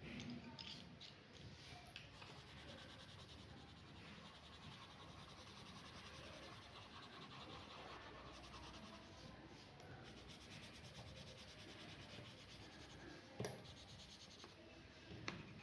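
Pen drawing on paper: a faint, steady scratching of the nib stroking across the sheet, with two short taps near the end.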